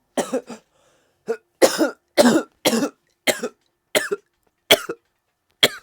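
A person coughing in a fit: about ten hard coughs in quick, uneven succession.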